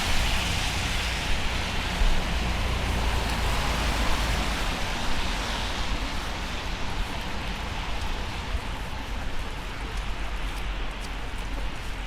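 Steady rain hiss over a low rumble. The higher hiss fades after about six seconds, and a few light ticks come near the end.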